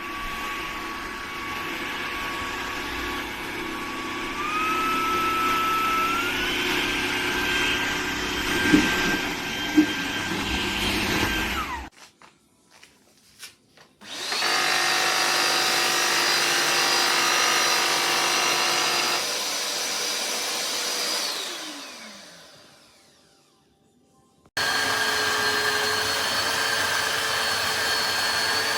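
Tineco iFloor 5 Steam wet-dry floor cleaner running with a steady motor whine that steps up in pitch twice, with two sharp clicks about nine seconds in. It shuts off about twelve seconds in and starts again a couple of seconds later. After about twenty-one seconds it winds down with a falling whine, then starts up once more.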